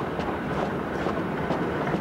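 A train running along the line, heard from on board: a steady rumble of the wheels on the rails, with faint clicks at the rail joints.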